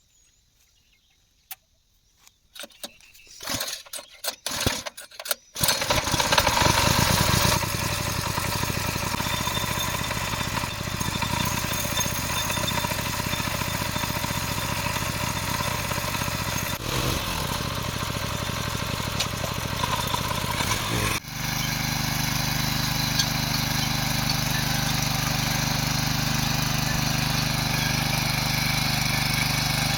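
Small petrol engine of a power weeder being pull-started: a few short sputtering bursts, then it catches about five seconds in and runs steadily. About 21 seconds in the running sound changes abruptly to a steadier, more even note.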